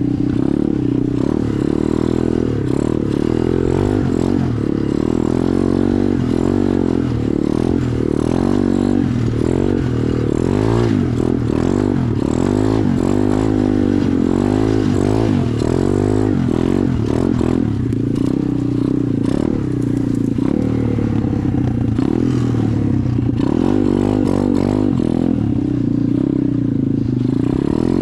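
SSR 125 dirt bike's single-cylinder four-stroke engine under way, its pitch rising and falling over and over as the throttle is opened and eased off.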